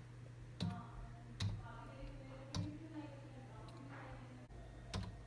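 Five separate sharp clicks, about one a second, like single key or button presses, over a faint low steady hum.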